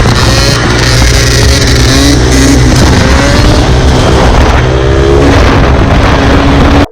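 Dirt bike engine revving hard, its pitch climbing several times, loud and close. The sound cuts off suddenly at the end.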